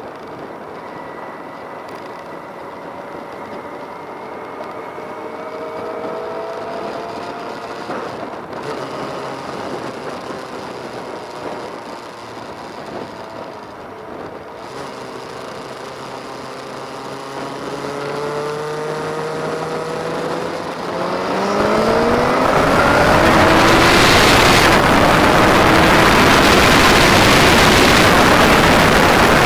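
Motorcycle engines running and revving, their pitch rising and falling. About two-thirds of the way through, the sound grows much louder as an engine accelerates with rising pitch.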